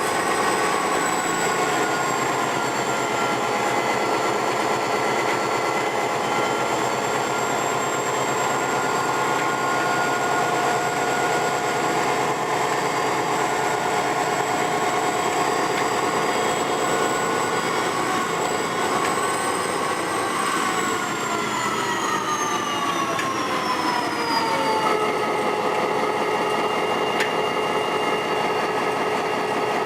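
GT22 diesel-electric locomotive running after start-up, a steady whine of several tones. About twenty seconds in, all the tones slide down together over a few seconds and settle lower as the engine speed drops.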